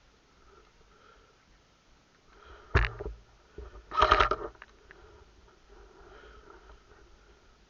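Airsoft gun firing: one sharp shot almost three seconds in, then a short rapid burst of shots about a second later.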